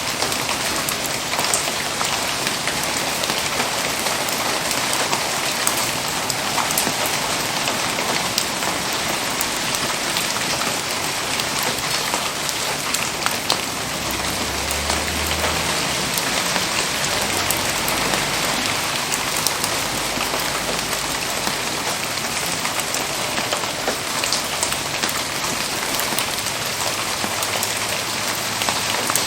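Steady rain falling: an even hiss with many small sharp ticks scattered through it.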